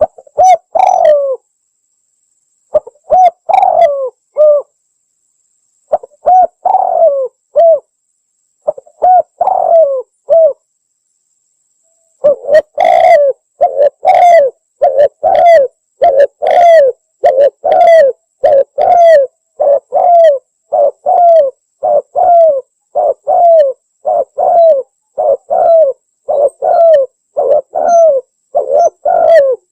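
Spotted dove (tekukur) cooing as a lure call for attracting wild doves. Several short phrases with pauses between them come first, then from about twelve seconds in the coos run on almost back to back, roughly one a second.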